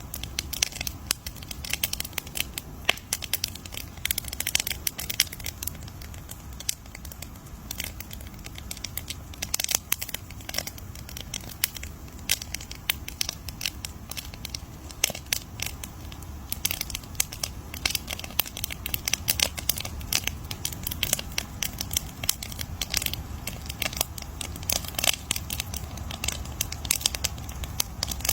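Wood fire crackling: a dense, irregular run of sharp pops and snaps, with a low steady rumble underneath.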